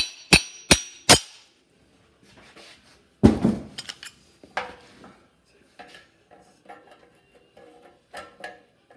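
Metal taps on a released exhaust pipe expander to knock it loose from the pipe: four sharp ringing taps in the first second or so, a heavier knock about three seconds in, then light clinks and rattles of the metal parts.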